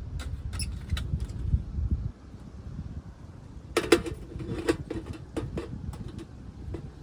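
Scattered small clicks and clinks of objects being handled, with a dense cluster of ringing clinks about four seconds in, over a low wind rumble on the microphone that drops away about two seconds in.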